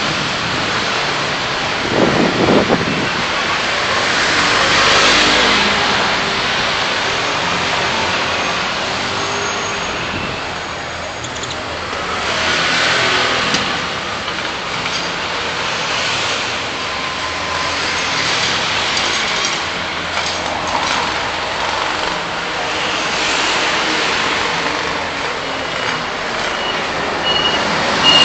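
City road traffic: engines and tyres of vehicles running and swelling past several times, with a brief low rumble about two seconds in.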